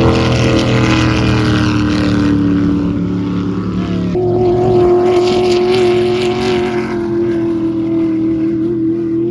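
A vehicle engine running at a steady drone. Its pitch sinks slowly for the first few seconds, then steps up sharply about four seconds in and holds steady.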